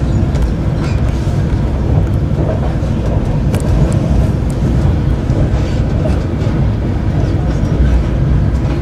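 Steady rumble of a moving passenger train heard from inside the carriage: wheels running on the rails, with a few faint clicks over the top.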